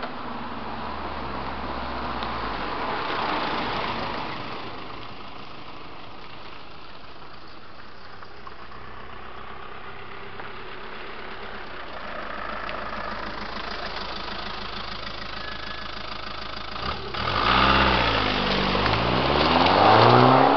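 VW Passat 2.0 TDI four-cylinder diesel idling through a custom exhaust, then revved twice near the end, the pitch rising and falling with each blip.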